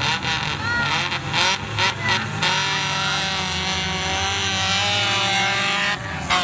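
Banger-race cars' engines revving, with quick rev blips and sharp knocks over the first two and a half seconds. Then one engine is held at high revs for about three and a half seconds and cuts off abruptly.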